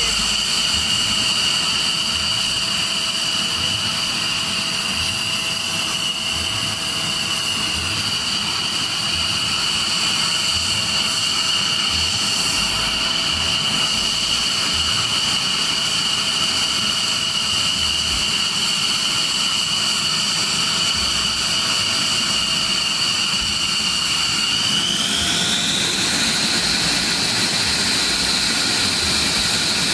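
Jet turbine running with a steady high whine; about 25 seconds in the whine rises in pitch and holds at the higher note.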